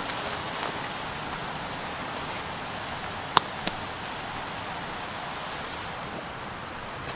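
Steady hiss of outdoor background noise with two sharp clicks close together about three and a half seconds in.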